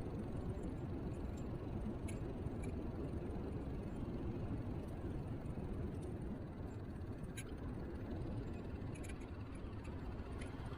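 Steady low rumble of wind and road noise picked up by an action camera mounted on a moving Niu KQi3 Pro electric kick scooter, with a few faint ticks.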